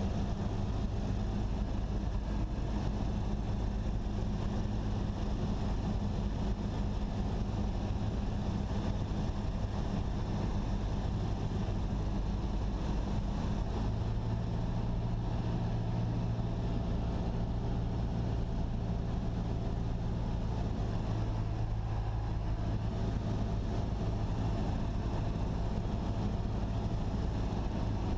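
Cessna 172SP's four-cylinder Lycoming engine and propeller droning steadily, heard inside the cabin at reduced power on final approach. The engine note shifts slightly about halfway through.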